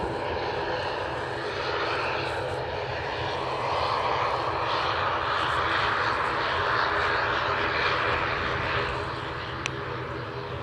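Airliner engines running steadily, swelling in the middle and easing off near the end as the aircraft moves past.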